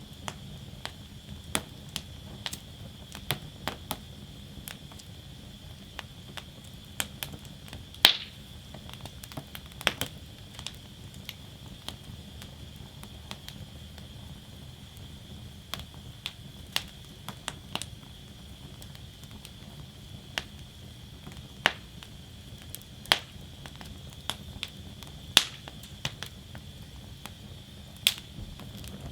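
Wood fire burning in a fire basket, crackling with irregular sharp pops and snaps over a steady low rush of flame. One pop, a little after eight seconds in, is louder than the rest.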